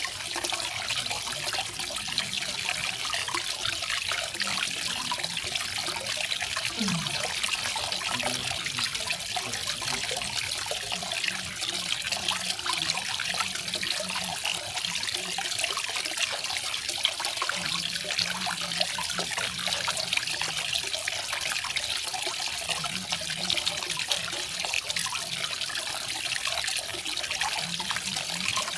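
Small garden waterfall, water splashing and trickling steadily in an even, unbroken rush.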